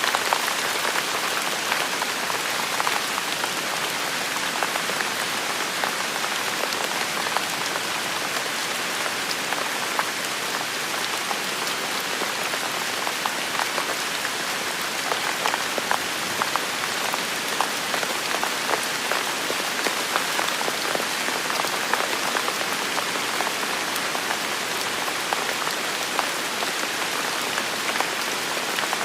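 Steady rain falling on hard surfaces, with many individual drops ticking sharply through the constant hiss.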